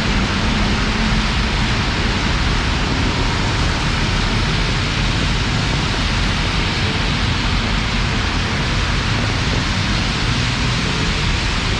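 Heavy monsoon rain pouring steadily: a dense, even hiss with a low rumble beneath it.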